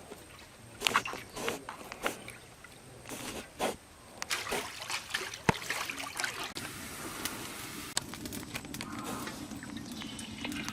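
Water sloshing and trickling with scattered knocks and clatters; from about four seconds in it turns into a denser, steadier splashing.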